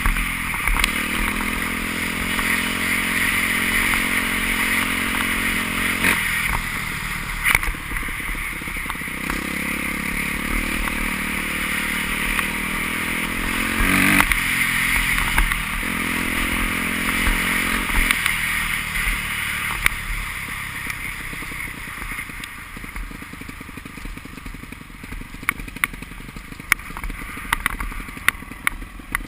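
Motocross motorcycle engines revving hard, their pitch climbing and breaking off several times. They grow quieter and more distant in the last third.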